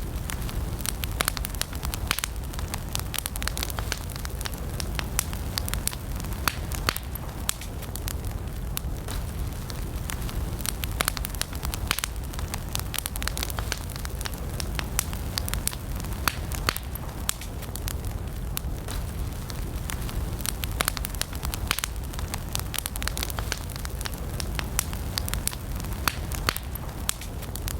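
Wood campfire burning, with a steady low rush of flames under frequent sharp, irregular crackles and pops.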